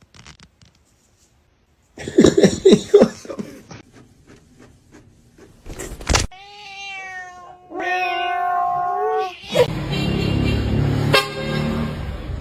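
A cat meowing: a wavering call about six seconds in, then a longer drawn-out meow. A short burst of mixed noise comes about two seconds in, and a loud noisy stretch fills the last few seconds.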